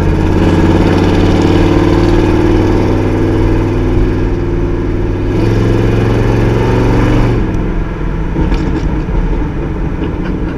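Chevy 350 small-block V8 with its mufflers deleted, running loud under way, heard from inside the car. The engine note shifts about halfway through and eases off to a quieter level soon after.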